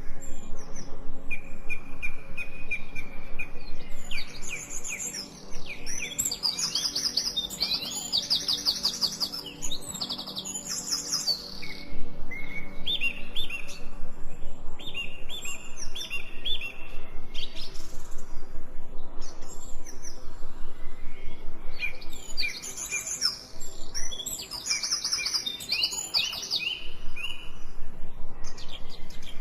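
Songbirds singing, with bursts of rapid trills and series of short repeated whistled notes coming and going in clusters, over a faint steady low drone.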